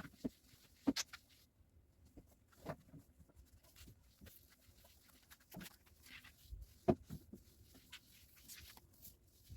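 Scattered light knocks and clicks of household objects being handled and set down, with the sharpest knocks about a second in and near seven seconds.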